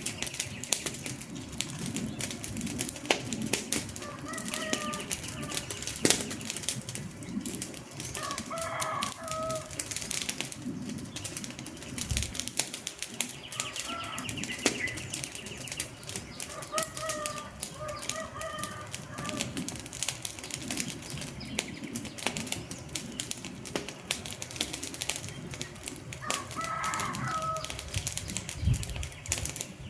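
Wood fire crackling and popping, a dense irregular stream of sharp snaps from burning logs. About five brief pitched calls sound over it at intervals of a few seconds.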